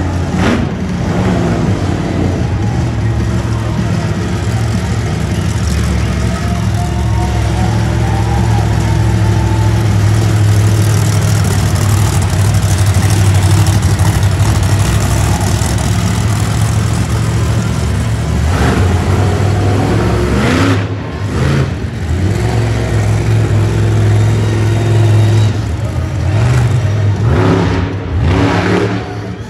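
Monster truck engine running hard at high revs under steady throttle. In the last third the throttle is lifted and blipped, so the revs fall and rise again a few times.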